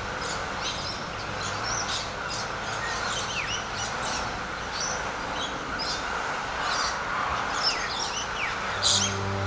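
Several birds chirping with many short high calls and a few quick downward whistles, over a steady background hiss.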